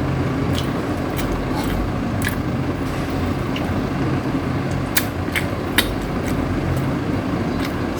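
Scattered wet clicks and smacks of someone chewing and eating rotisserie chicken, over a steady low background hum.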